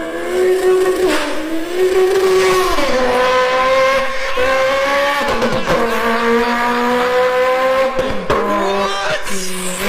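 High-revving car engine accelerating hard through the gears. Its pitch climbs steadily, then drops sharply at each upshift, about three times.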